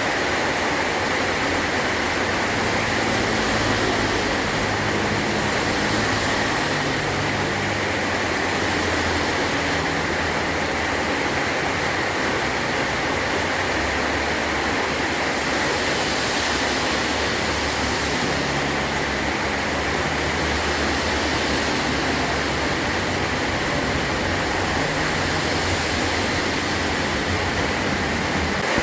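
Heavy rain drumming steadily on a metal tin roof, a dense, even hiss with no breaks.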